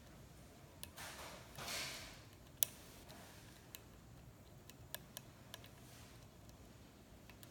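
A lock pick working the pins of a pin-tumbler lock cylinder: scattered small sharp clicks, the sharpest about two and a half seconds in, with a short rustle between about one and two seconds.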